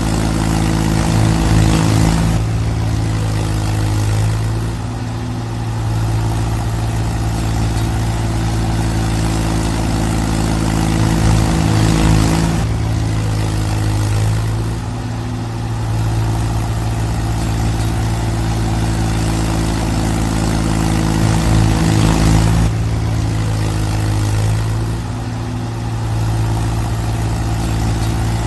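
Mahindra tractor's diesel engine running hard on a muddy climb. It swells and eases back in a repeating cycle about every ten seconds.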